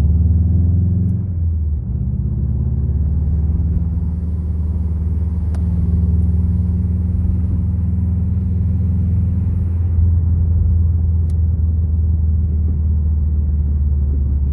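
1991 Subaru Legacy Turbo's engine droning inside the cabin under way. Its note drops about a second and a half in, then holds steady at cruise.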